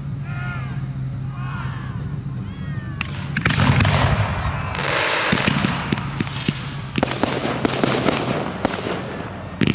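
A fireworks display begins about three seconds in: shells go off with a deep boom, then many sharp cracks and crackling, with one very sharp bang near the end. Before that, voices are heard over a low steady hum.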